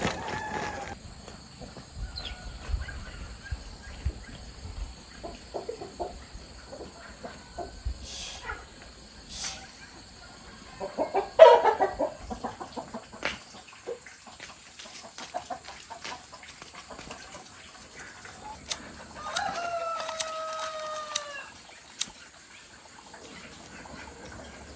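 A rooster crowing once, a long call that falls slightly in pitch, near the end, with chickens clucking and scattered knocks and clicks before it.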